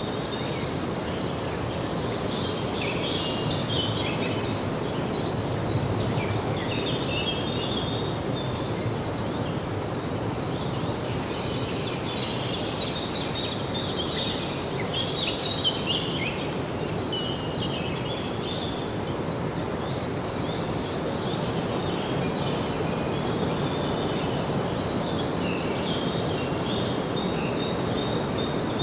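Small birds chirping and twittering, several at once, on and off throughout, over a steady background of outdoor noise.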